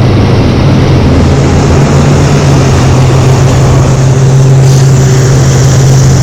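Loud steady road noise: wind and a wet-road rush with a low steady hum running underneath.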